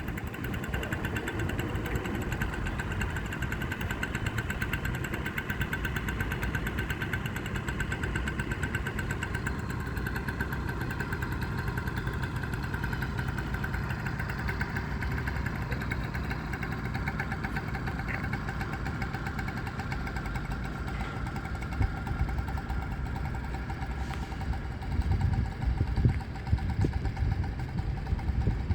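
Small single-cylinder petrol engine of an engine bicycle running steadily with a fast, even beat. Near the end, louder uneven low rumbles come in.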